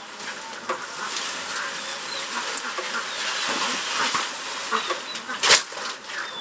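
Chickens and other farm fowl making faint high peeps, with scattered clicks and one loud, sharp sound about five and a half seconds in.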